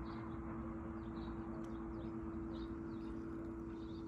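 Outdoor ambience with small birds chirping over and over, about two short calls a second, above a steady low hum and a low rumble.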